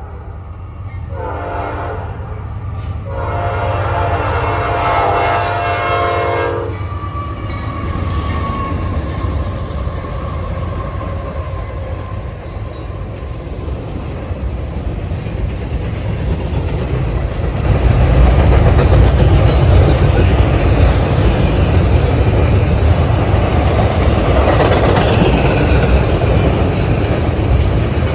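Norfolk Southern locomotive horn sounding a short blast and then a long one for the grade crossing, followed by the train coming up and passing. The rumble and wheel clatter of the passing train grow steadily and are loudest over the last third.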